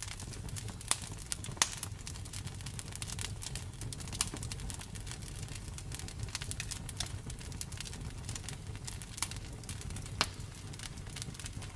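Wood fire crackling and popping: frequent sharp snaps over a low steady rumble of burning, with a few louder pops about a second in, near the middle and near the end.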